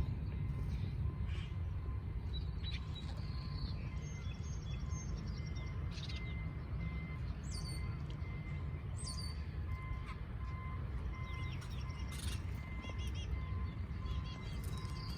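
Small birds chirping, with scattered short high calls and a few quick downward-gliding notes, over a steady low rumble.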